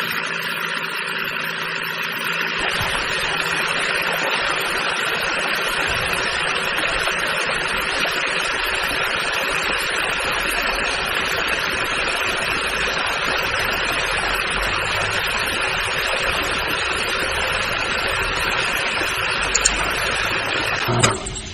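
Small electric motor running steadily, the drive of a homemade miniature chaff cutter, with a constant whirring hum; it fills out in the low end about two and a half seconds in and stops just before the end.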